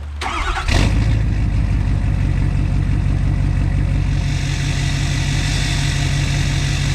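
Diesel engine running steadily, a deep rhythmic drone that comes in sharply under a second in.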